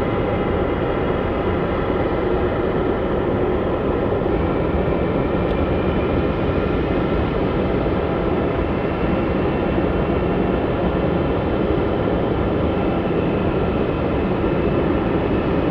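Jet airliner engines running, a steady loud roar with high whining tones over it; one whine appears about four seconds in and rises slightly in pitch.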